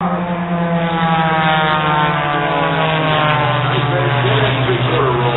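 Propeller airplane engine droning as it flies past, its pitch falling steadily over the first three seconds and then holding low.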